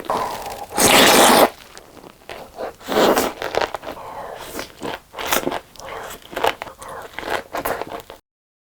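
Close-miked eating and food-handling sounds: crunchy bites and rustling, with a long loud rustle about a second in and another about three seconds in, cutting off suddenly near the end.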